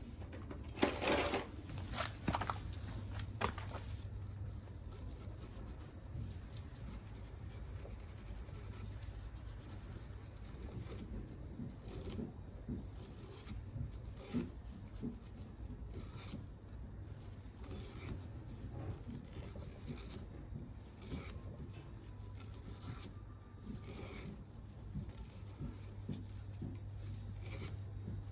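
Hand tools working on a scooter engine's parts: a few sharp metallic clicks in the first few seconds, then scattered light taps, rubbing and scraping over a low steady hum.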